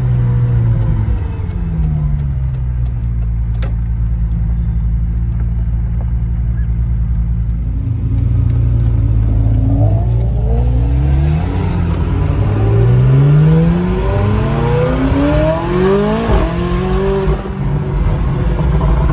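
McLaren 570S twin-turbo V8 with sport exhaust, heard from inside the cabin: the engine note falls as the car slows, runs steady for several seconds, then climbs sharply in pitch twice under hard acceleration in the second half, with a gear change between the two pulls.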